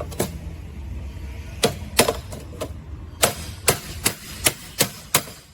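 A hammer tapping a part into place with about ten sharp strikes, a few spread out at first, then evenly two to three a second.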